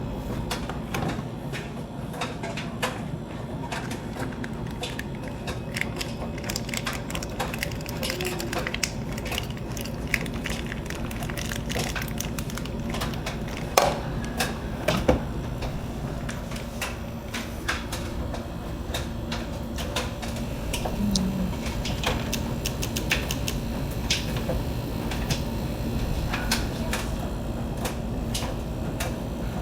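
Miele washing machine running, a steady hum under irregular clicks and knocks, with two louder knocks about halfway through.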